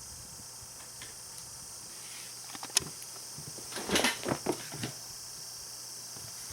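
Kittens playing with a basket and teaser toy: one sharp click, then about a second later a quick run of knocks and scrapes, over a steady faint hiss.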